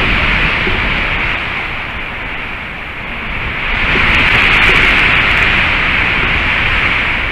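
Gusty wind on the nest camera's microphone: a steady rushing hiss over a low rumble, swelling about four seconds in and easing near the end.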